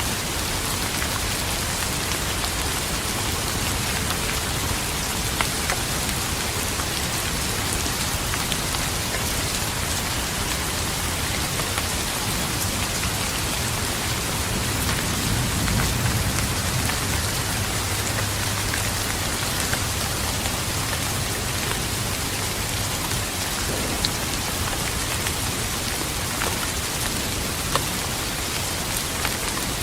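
Steady rain falling, an even hiss with scattered individual drops ticking. About halfway through, a low rumble of distant thunder swells and fades.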